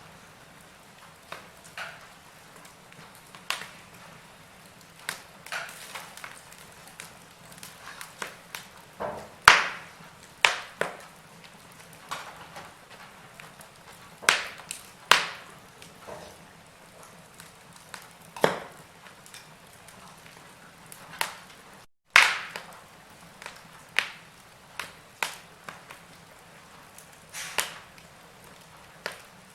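Wood fire in a fireplace crackling, with irregular sharp pops and snaps every second or so over a faint steady hiss. The sound cuts out for a split second about two-thirds of the way through, just before one of the loudest pops.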